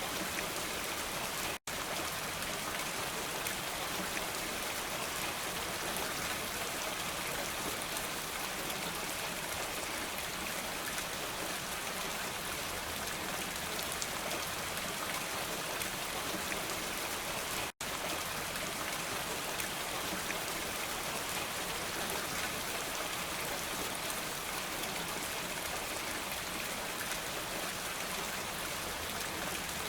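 Steady rain falling, a dense, even hiss of drops, cut off for an instant twice: about one and a half seconds in and again near the eighteen-second mark.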